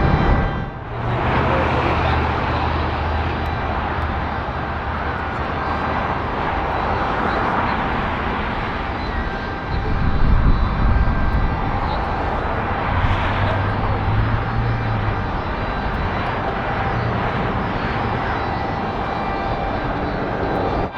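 Jet airliner engines running loud and steady, a dense rushing roar with a low hum underneath, dipping briefly just under a second in.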